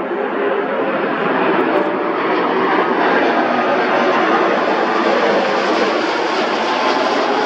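Jet engine noise from a landing Airbus A330-300 and its Rolls-Royce Trent 700 engines: a loud, steady rushing roar with faint steady tones in it, growing slightly brighter about a third of the way in.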